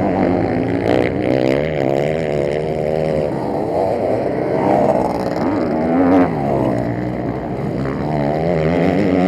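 Several motocross bike engines revving together, their pitches rising and falling over one another as the riders accelerate and back off.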